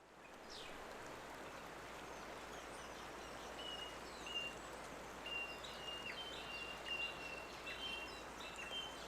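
Outdoor nature ambience fading in: a steady rushing hiss, with small birds chirping in short, high whistled notes that come repeatedly from about three seconds in.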